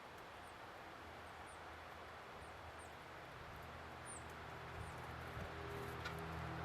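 Small birds giving short, high chirps, about seven scattered through, over a steady outdoor hiss. From about halfway, a vehicle engine hum rises and grows louder toward the end, as if approaching.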